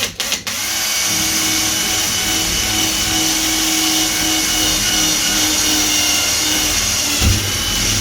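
Power drill running steadily with a small wood drill bit, boring a pilot hole through a wooden door for the handle spindle. It starts just after a couple of clicks.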